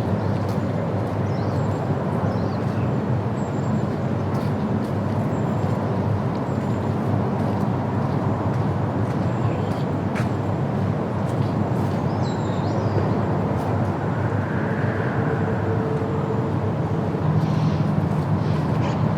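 Steady outdoor background noise, with a few faint high bird chirps over it and a low hum joining near the end.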